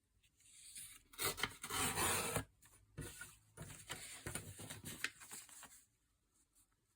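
A sheet of paper being torn by hand along a fold to trim it, in a few uneven pulls, the longest and loudest about a second in; the tear is not straight.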